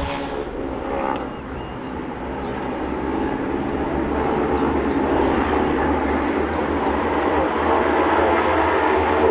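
A pack of Honda CB500 parallel-twin race bikes running together, their engines blending into one drone that grows louder over the first few seconds and then holds steady.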